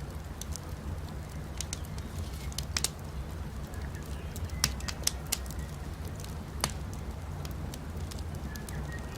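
Wood campfire burning with a steady low rumble and scattered sharp crackles and pops, the loudest snaps about three, four and a half to five, and six and a half seconds in. Faint short bird chirps come through now and then.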